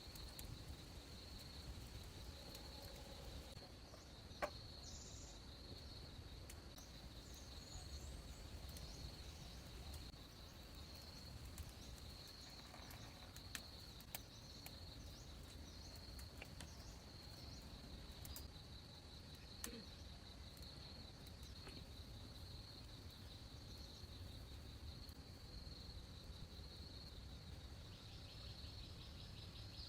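Insects chirring steadily in a high, pulsing drone, with a few faint bird chirps early on and a handful of single sharp clicks or knocks.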